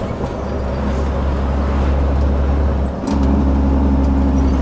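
Heavy diesel truck engine running with a steady low drone; about three seconds in it briefly drops away, then comes back louder.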